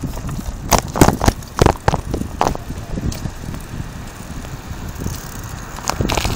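Wind and road rumble on a phone microphone carried on a moving bicycle, with irregular sharp knocks and clicks from handling the phone and the bike rattling, most of them in the first three seconds and a few near the end.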